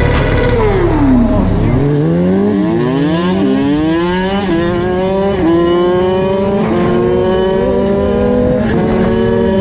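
A motorcycle engine whose pitch falls as it slows, then revs up through several gear changes, each marked by a short dip in pitch, and climbs steadily near the end.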